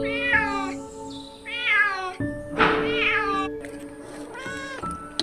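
Cat meowing four times, each call about half a second long with a rising-then-falling pitch; the third call is rougher and a little longer. Background music with held notes plays underneath.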